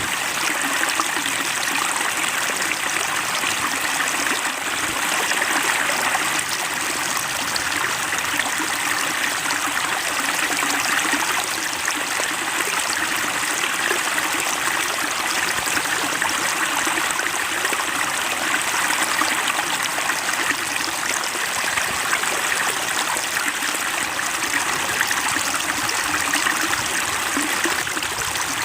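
Water splashing and trickling into a fish pond, a steady babbling like a small stream.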